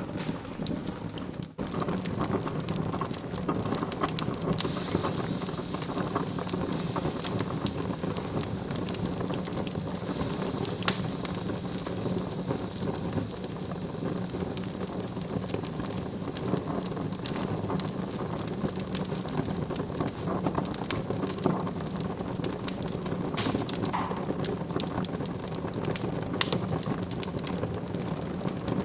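Wood fire in a fireplace crackling steadily with dense small pops, a hiss from about five to fourteen seconds in, and one sharper pop about eleven seconds in.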